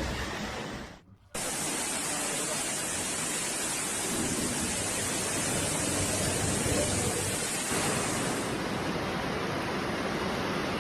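Steady rushing noise of heavy water, rain or floodwater, broken off by a brief gap about a second in.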